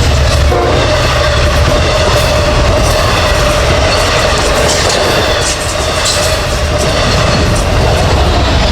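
Long Island Rail Road train of C3 bilevel coaches passing close by at speed: a loud, continuous rumble of wheels on rail with scattered clacks over the rail joints and a steady whine above it.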